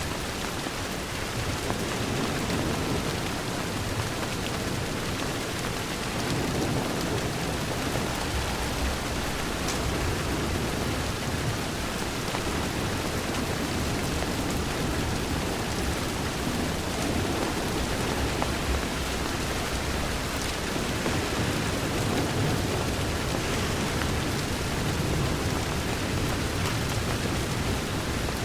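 Steady rain falling against a window, with a low rumble underneath.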